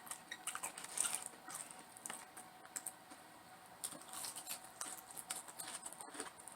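Close-miked eating sounds: a run of small, irregular clicks and crackles of chewing and mouth noises, fairly quiet.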